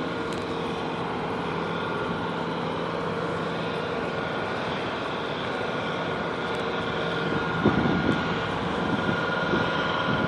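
Steady rolling and wind noise of a bicycle ride picked up on a moving camera, with a steady hum underneath. From about eight seconds in the noise turns rougher, with irregular bumps and rattles.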